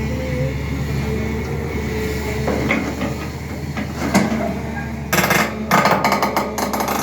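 SANY hydraulic excavator's diesel engine running steadily, with a sharp metallic knock about four seconds in and then a burst of rapid, loud metal clanking and rattling for about two seconds near the end.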